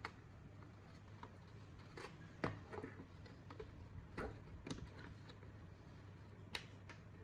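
About six scattered small clicks and knocks from hands handling parts, the loudest about two and a half seconds in, over a faint steady low hum.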